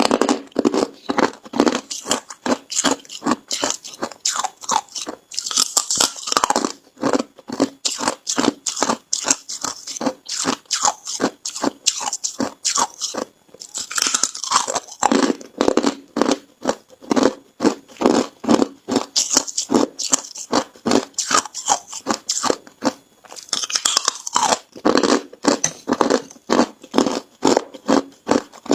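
Ice being bitten and chewed close to the microphone: a steady run of sharp crunches, with louder cracking bites near the start and again about six, fourteen and twenty-four seconds in.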